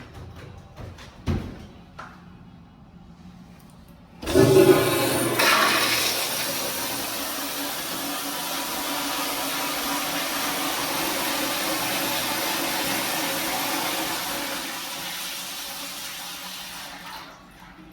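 A toilet flushing: a sudden loud rush of water about four seconds in that runs steadily for over ten seconds and fades away near the end. A short knock comes about a second in, before the flush.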